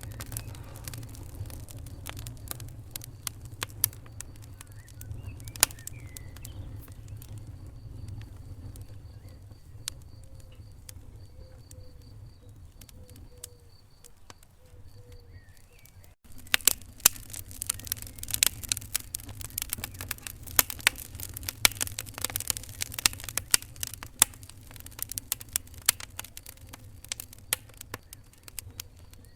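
Wood fire crackling in a fireplace: sharp pops and snaps over a low, steady rumble of the burning. The pops thin out in the middle; after a brief cut about halfway through, the crackling comes back busier.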